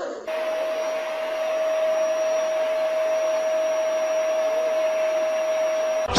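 A small electric motor running steadily, a whirring hiss with a constant whine, starting just after the beginning and cutting off abruptly near the end.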